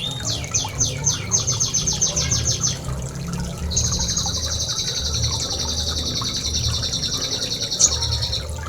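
Small songbird singing in rapid, evenly repeated high notes: short quick runs at first, then one long fast trill from about four seconds in that lasts some five seconds, over a low rumble.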